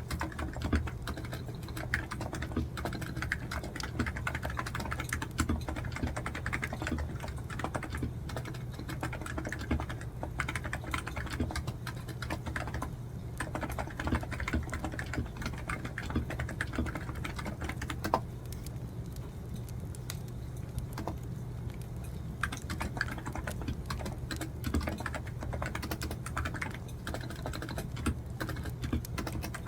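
Continuous typing on a computer keyboard, a quick irregular patter of key clicks that thins out to a few keystrokes for several seconds past the middle, then picks up again. A crackling wood fire burns low underneath.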